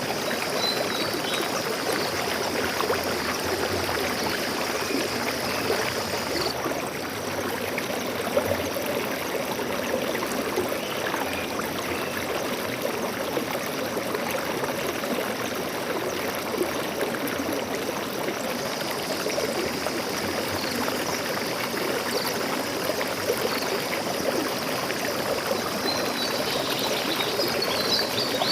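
Stream water flowing and trickling steadily over rocks, a continuous even rush.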